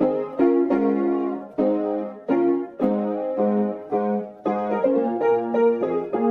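Background music: piano chords struck at a steady, unhurried pace, each chord ringing on until the next.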